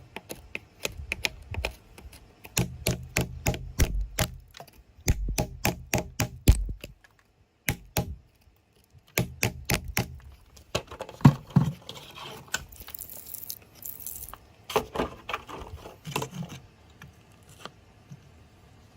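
Metal hand tool picking and tapping at stone and packed earth: a rapid run of sharp clicks and knocks, turning to rougher scraping about halfway through.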